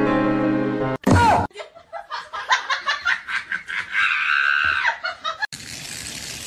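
Background music that stops about a second in, then a short loud burst, then a few seconds of high-pitched laughter in short snickers.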